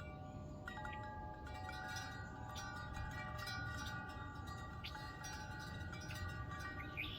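Wind chimes ringing in a breeze: several overlapping tones struck and left to ring, over a low steady rumble. A brief higher sound comes near the end.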